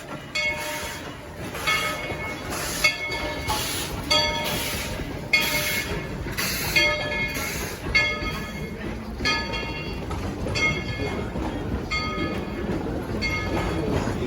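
Steam locomotive's bell ringing steadily, about one stroke every half second or so, over the rumble of the approaching train, which grows louder near the end.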